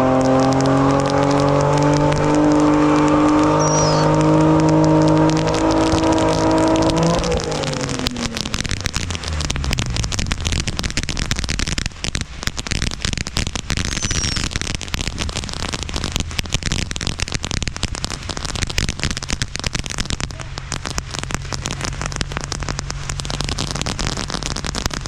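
Infiniti G37's V6 engine held at high revs, then the revs fall away in a long downward glide about seven seconds in. After that comes a dense, continuous crackling of fireworks, with the engine idling low underneath near the end.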